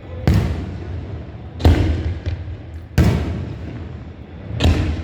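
Fireworks bursting: four loud bangs roughly every second and a half, each trailing off in a rumbling echo.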